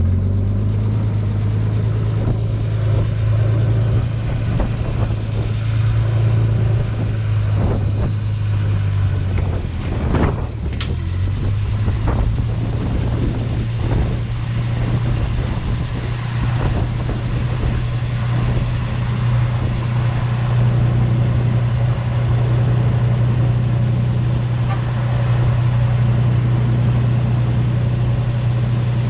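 Truck engine running steadily with a low, even drone. Its pitch dips and then settles slightly higher about ten seconds in, with a few scattered clunks around the middle.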